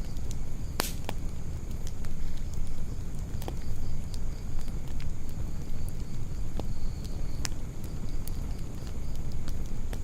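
Wood campfire burning, with scattered sharp crackles and pops and one loud snap about a second in, over a steady low rumble.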